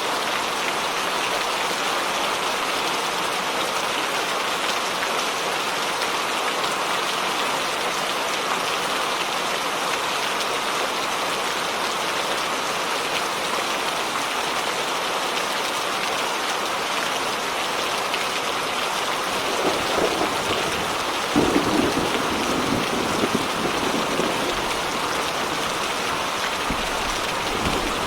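Steady heavy rain falling on a surface, an even hiss. About two-thirds of the way through, a low rolling rumble of thunder comes in underneath and carries on to the end.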